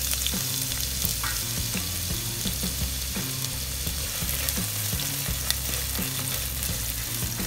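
Chopped onion sizzling in hot sunflower oil in a pan, with a steady hiss and scattered clicks of a spoon as it is stirred.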